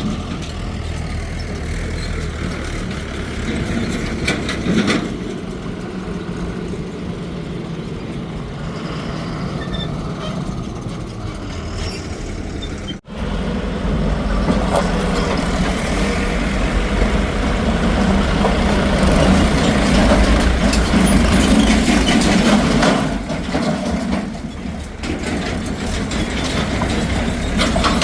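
Heavy diesel machinery running steadily. About halfway through the sound cuts out for an instant and comes back louder.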